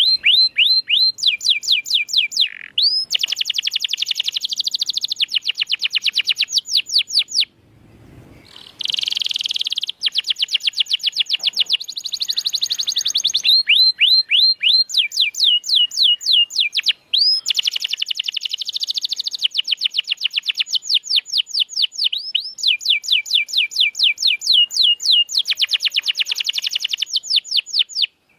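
Domestic canary singing: long runs of rapid, evenly repeated high notes, one quick trill after another, with a short pause about a quarter of the way in.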